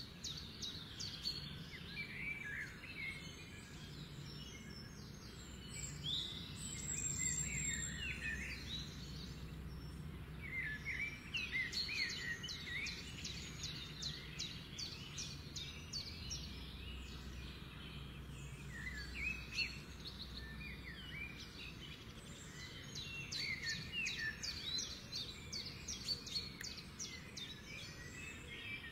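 Small birds chirping and singing in repeated clusters of short rising and falling notes and quick trills, over a low steady hum.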